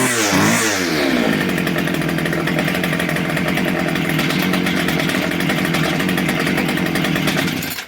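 Small two-stroke engine of a Homelite i625cd string trimmer, blipped up and down quickly for about a second, then held at steady high revs before cutting off near the end. It revs up cleanly on its newly fitted replacement carburettor.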